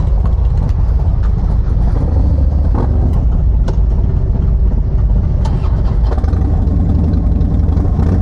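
Motorcycle engine running, a loud, steady low rumble.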